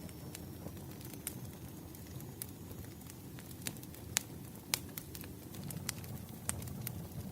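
Campfire burning: a steady low rumble of flame with scattered sharp crackles and pops, the loudest two a little after four seconds and near five seconds in.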